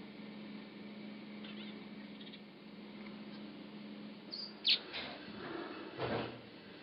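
Weaver bird calling: a few faint high chirps, then a loud sharp call that drops in pitch about four and a half seconds in, followed by two harsher, noisier calls.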